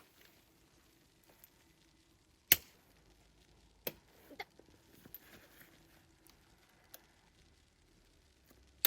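A few sharp knocks at irregular intervals, the loudest about two and a half seconds in, over a faint steady hum.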